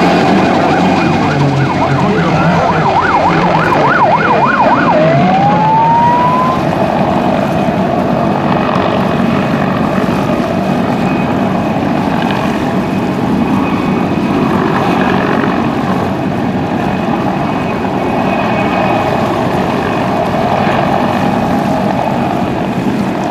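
Siren sounding over a steady helicopter and engine noise: a rapid up-and-down warble for a few seconds near the start, then one rising wail about five seconds in.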